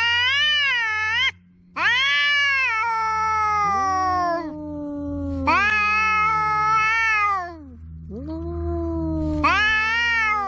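Two tom cats caterwauling at each other in a territorial standoff. Their long, wavering yowls overlap and answer one another, one voice higher and the other lower and sliding down in pitch. One yowl breaks off sharply about a second in.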